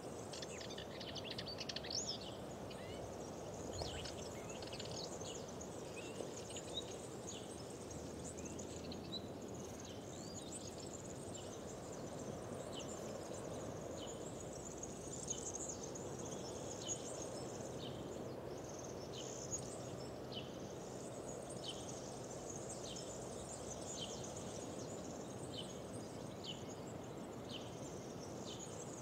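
Several wild birds singing and chirping in spring woodland over a steady low background rush. Through the second half, one bird repeats a single short high note about once a second.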